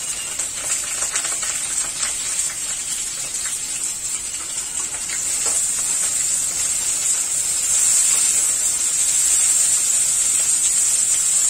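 Cut okra sizzling in hot mustard oil in a kadhai, a steady hiss that grows louder from about halfway. A spatula stirring the okra scrapes and clicks against the pan in the first half.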